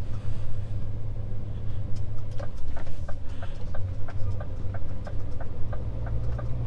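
Scania S500 truck engine running steadily, heard inside the cab. About two seconds in, a regular ticking starts, about three ticks a second.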